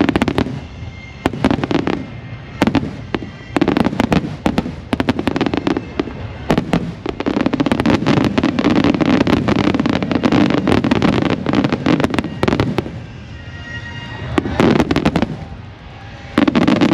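Aerial fireworks bursting: sharp bangs, each followed by a rumbling echo, come in quick succession and build into a dense barrage of overlapping booms and crackles through the middle, then thin out before a last cluster of bangs near the end.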